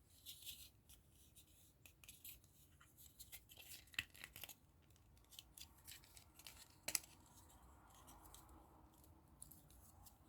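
Near silence broken by faint, scattered clicks and light rustles as small plastic model-kit parts are handled, with a sharper click about four seconds in and another near seven seconds.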